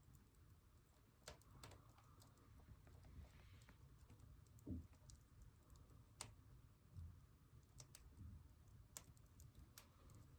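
Faint, irregular crackles and pops of firewood burning in a wood stove, with a low thump about halfway through.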